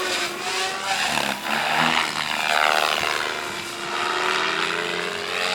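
Radio-controlled helicopter flying, its rotor and motor whine sliding up and down in pitch as the flight changes.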